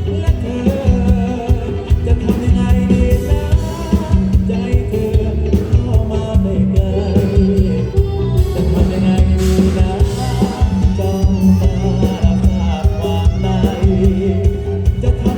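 Live luk thung band music played loud through a PA, with a steady drum and bass beat under a male lead vocal.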